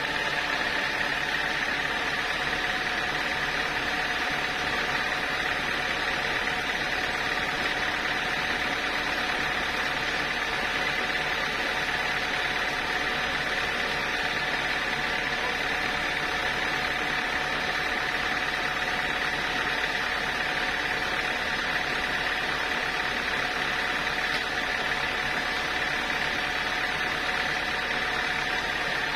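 Sawmill saw machinery running steadily at a constant pitch, with a high whine held unchanged throughout.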